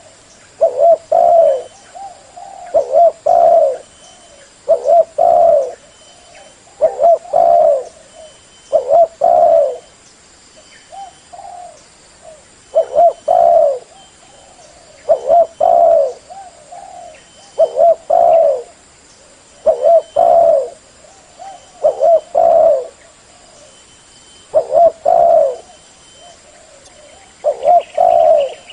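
Spotted dove cooing: a loud, short phrase of two or three low coos, repeated over and over about every two seconds.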